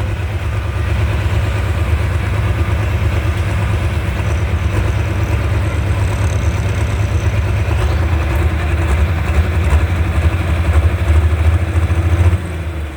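Loud, steady low rumble of a heavy tractor engine running, dipping in level about twelve seconds in.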